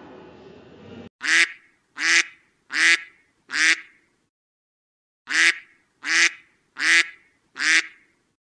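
Duck quacking: two runs of four quacks, about three-quarters of a second apart, with a short pause between the runs.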